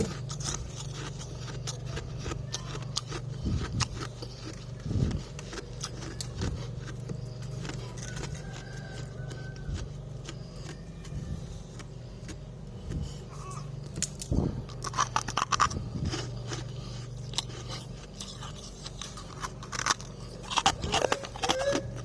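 Freezer frost being scraped and crunched while it is eaten: many short, crisp crackles and scrapes over a steady low hum.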